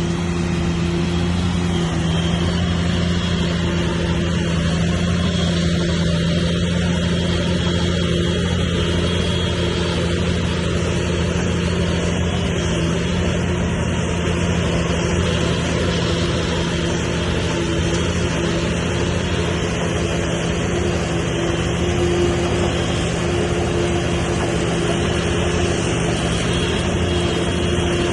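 Diesel engine of heavy earthmoving machinery running steadily at an even, constant speed.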